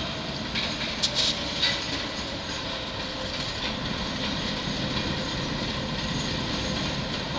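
Diesel locomotive running as it pulls a string of tank cars along the track, a steady rumble with a few short sharp sounds about a second in.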